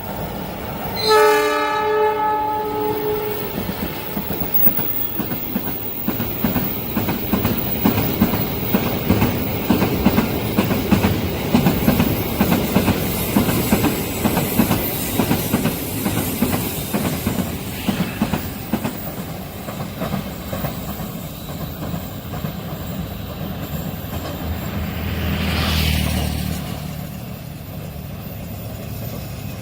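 Train horn sounding once about a second in, a chord of several notes lasting about two seconds. Then a long train passes close at speed, its wheels clattering rapidly over the rail joints for some twenty seconds. Near the end a low rumble swells and fades.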